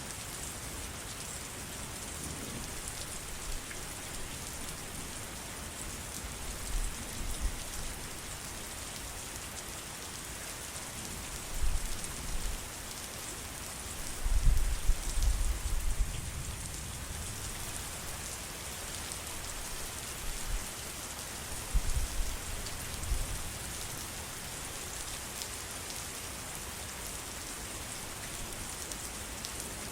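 Steady rain falling, an even hiss of many drops. Several short low rumbles rise out of it, the loudest about halfway through.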